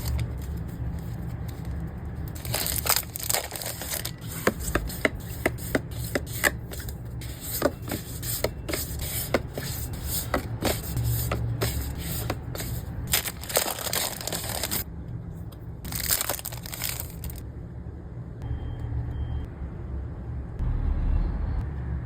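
Packing materials being handled, crinkled and torn open: a dense run of sharp crackles and rustles, a short break, another burst, then quieter handling near the end, over a low steady hum.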